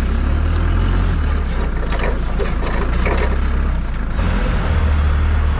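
Farm vehicle engine running steadily with a low drone, with some knocks and clatter about two to three seconds in.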